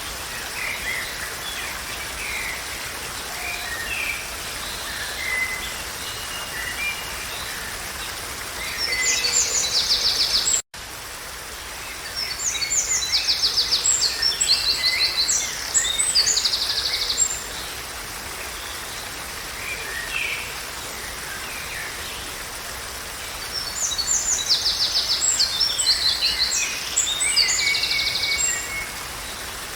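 Songbirds singing over a steady background hiss: scattered short chirps, with three louder bouts of fast, rapidly repeated high trilling notes. The sound cuts out completely for an instant about eleven seconds in.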